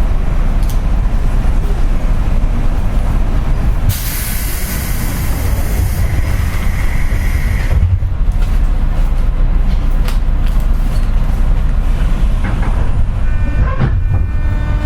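Inside a JR West 201 series electric train: a steady low rumble, with a hiss of compressed air for about four seconds in the middle. Near the end a chord of steady whining tones sets in from the armature-chopper traction equipment.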